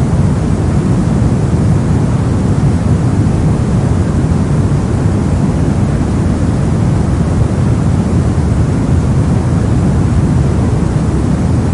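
Steady soft noise, a continuous even rush weighted toward the low end, deep and muffled rather than bright, with no changes or events.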